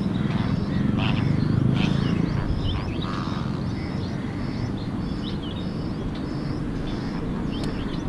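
Birds chirping, with a short high note repeated about twice a second and scattered quick chirps, over a steady low rumble.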